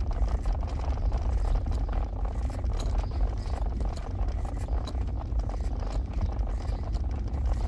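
A car driving: a steady low rumble of engine and tyres on the road, with small rattles and clicks throughout.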